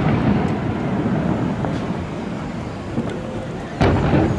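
Aerial firework shells bursting: the rumble of one burst dies away, a smaller crack comes about three seconds in, then another loud boom near the end.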